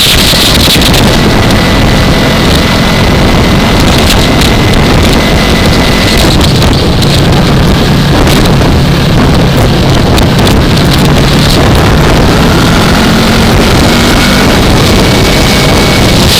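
Heavy wind rushing over a helmet-mounted camera microphone, with a 2015 Yamaha R3's parallel-twin engine running underneath at riding speed; the engine note shifts a little a few times.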